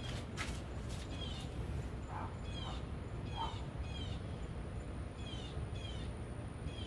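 A bird chirping over and over, short falling notes repeated about every half second, against a steady low room hum.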